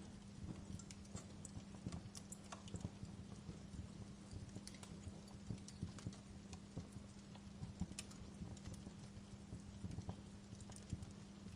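Wood fire burning in a fireplace, crackling with irregular pops and snaps over a steady low hum.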